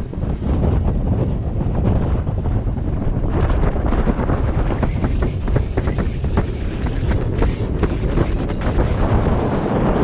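Strong wind buffeting the microphone: a loud, low, gusty rumble with crackling.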